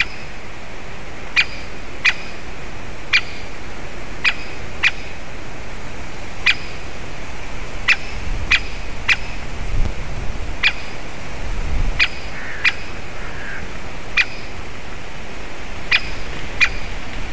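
Great spotted woodpecker giving repeated sharp single 'kik' calls, irregularly spaced about half a second to two seconds apart.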